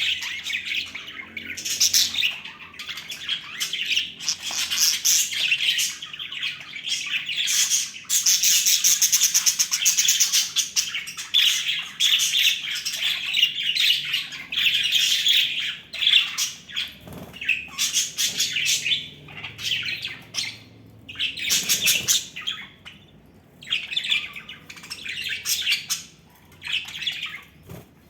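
Pet budgerigars chattering and chirping in a fast, busy stream, breaking into shorter bursts with brief gaps near the end.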